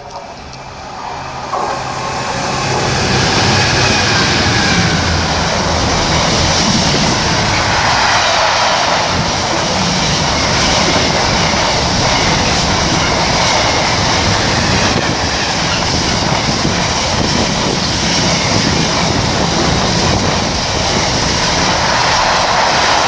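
Freight train hauled by a Class 66 diesel-electric locomotive passing through at speed. The sound builds over the first few seconds as it approaches, then holds loud and steady as the train rushes past.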